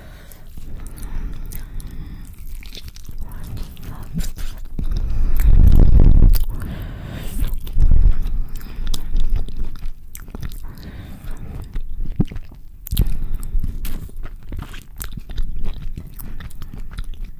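Close-miked chewing and biting of a carne asada burrito: wet mouth sounds with many sharp smacks and clicks. A much louder low rush comes about five to six and a half seconds in, with another short one near eight seconds.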